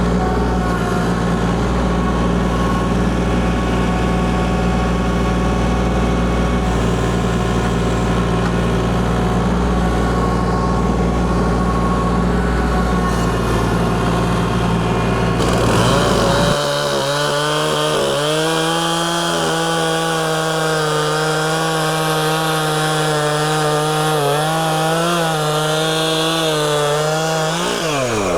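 A heavy engine idling steadily, then about two-thirds of the way in a chainsaw runs and cuts. Its pitch wavers under load and winds down near the end.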